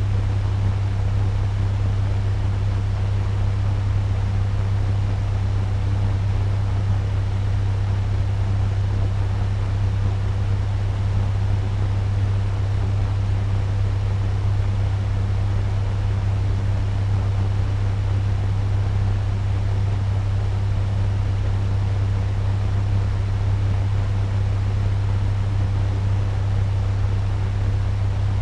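Turbo fan running steadily at medium speed: an even rushing of air over a strong, constant low hum.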